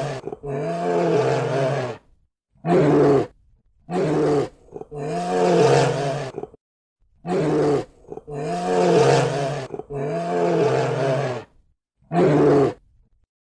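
A bear roaring: about eight separate roars, some short and some nearly two seconds long, with brief pauses between them.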